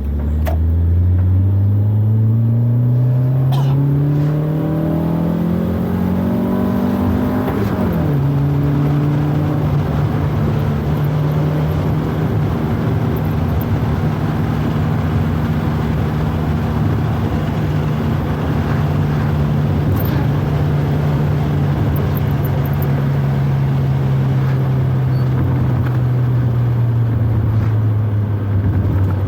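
Proton Wira 1.5's four-cylinder engine revving up through a gear for about eight seconds, dropping sharply at an upshift, then holding a steady engine note under way, sagging slightly near the end.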